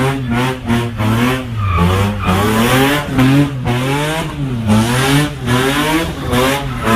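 Car doing a burnout, its engine revving up and dropping back over and over, about once a second, over the hiss of spinning tires.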